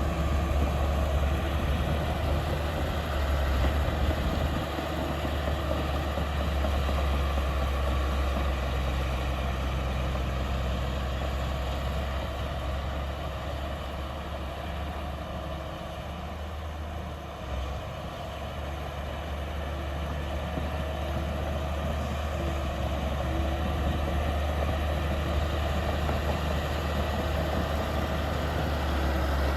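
Heavy diesel earthmoving machinery running steadily with a deep low engine drone. It eases quieter through the middle and builds back up toward the end.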